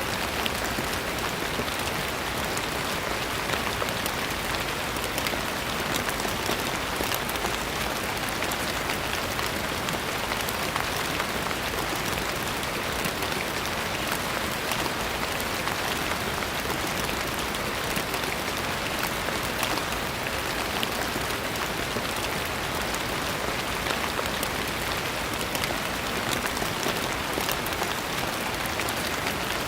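Steady rain, a dense even patter of many drops landing on a surface.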